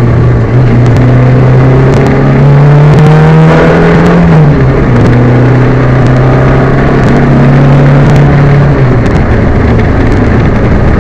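Peugeot 205 rally car's engine running hard under load, heard from inside the car: the engine note climbs, then drops suddenly about four and a half seconds in and again near nine seconds, as the revs fall. The car has a misfire.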